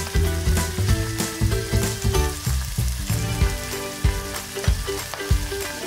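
Chicken livers sizzling as they sear in hot olive oil in a frying pan, with background music playing under the sizzle.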